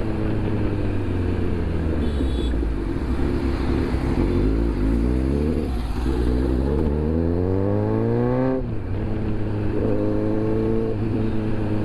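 Kawasaki Z900's inline-four engine under way: the note holds steady, then climbs for about four seconds as it accelerates, drops sharply at an upshift about eight and a half seconds in, and pulls again.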